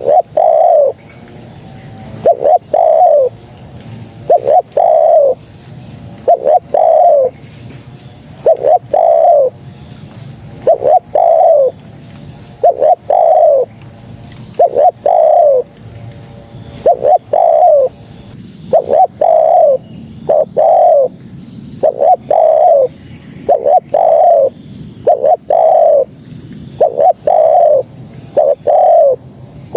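Spotted dove cooing over and over, a short note followed by a longer one in each phrase, about one phrase every two seconds; the uploader presents it as a female calling for a male.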